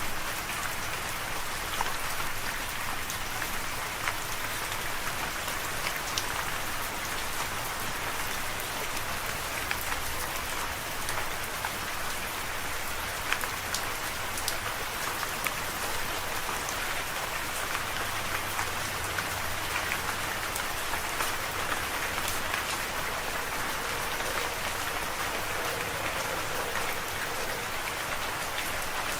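Steady rain falling, an even hiss with many scattered sharper drop taps.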